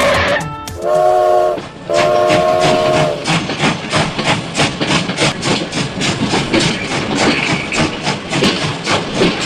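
Train whistle blowing two blasts, the second longer, followed by the rhythmic clickety-clack of train wheels over rail joints, about five clicks a second.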